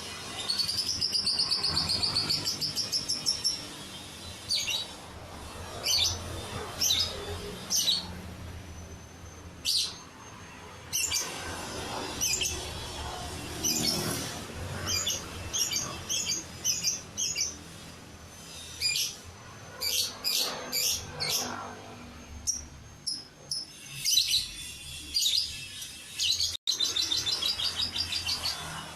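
Lovebird singing: a long, rapid, high trill about a second in, then many short, sharp chirps in quick runs, and another long trill near the end.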